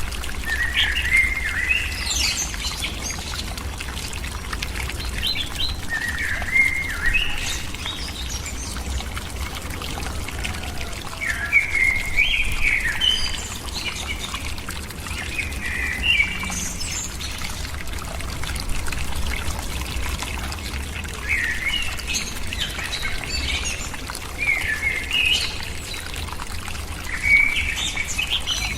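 A bird calling in short bursts of chirps, a phrase every few seconds, over a steady hiss.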